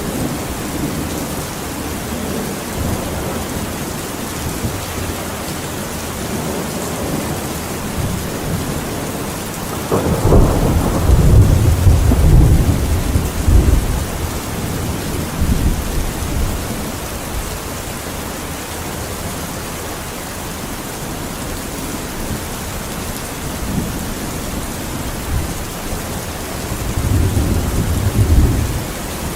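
Steady rain with thunder rumbling, loudest for a few seconds about ten seconds in and again briefly near the end.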